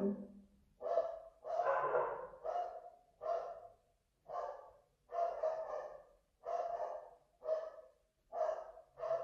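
Pet dogs barking over and over, about ten barks spaced roughly a second apart, the endless barking set off by a motorcycle delivery rider.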